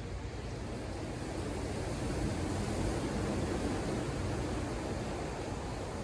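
Ocean surf: a steady rush of waves on the shore that swells for a couple of seconds near the middle, with a low rumble underneath.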